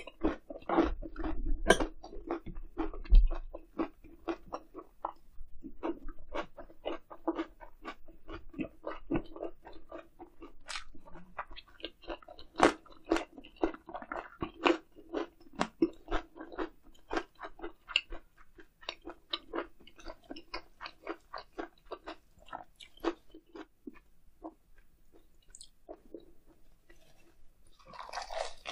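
Close-miked chewing of a mouthful of grilled eel: a steady run of small wet clicks at about two or three a second, with a short denser burst of noise near the end.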